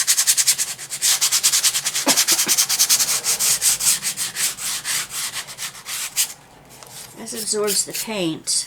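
Rapid back-and-forth rubbing strokes on a small wooden piece, fine-grit sanding or brushing, a quick even hissing rhythm that stops about six seconds in.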